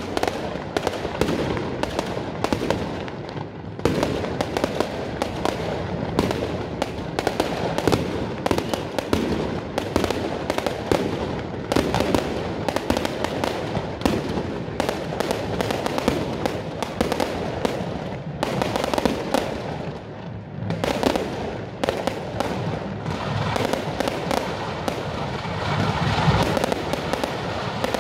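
Aerial fireworks bursting overhead in a dense, continuous run of sharp cracks and bangs, with a few brief lulls.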